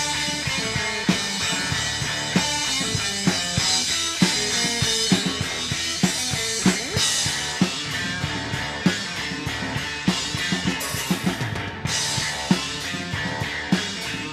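Live rock band playing an instrumental passage. The drum kit leads with a steady kick-and-snare beat under cymbals, with guitar and bass. The cymbals drop out briefly near the end.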